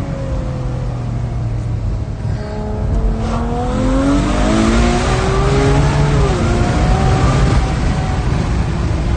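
Ferrari 812 Superfast's naturally aspirated 6.5-litre V12 heard from inside the cabin: the engine note eases off for the first couple of seconds, then climbs under hard acceleration from about three seconds in and gets louder. About two-thirds through the pitch drops briefly, as on a paddle upshift, and climbs again.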